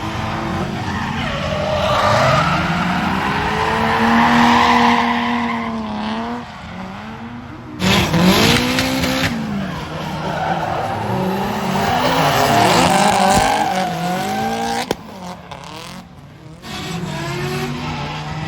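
Drift cars at full throttle, engines revving up and down with hard shifts while the tyres squeal and skid. The sound changes abruptly about eight seconds in and again near fifteen seconds, as a new car or pass takes over.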